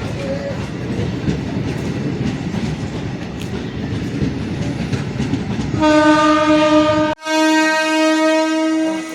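A MEMU electric multiple-unit train runs with a rumble and clatter of wheels on the rails. About six seconds in its horn sounds twice: a short blast, a brief gap, then a longer blast.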